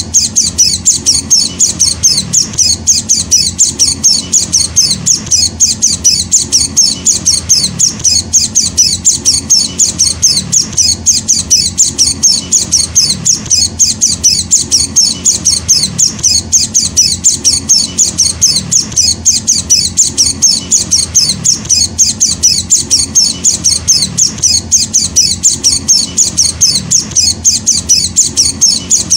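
Juvenile white-eye (pleci, Zosterops) chick calling without pause: short, high-pitched chirps repeated several times a second in a steady rhythm, the calls of a young hand-reared bird.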